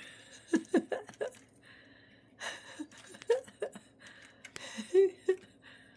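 Budgerigars chattering softly in short scratchy bursts, mixed with brief soft human vocal sounds like little gasps or chuckles.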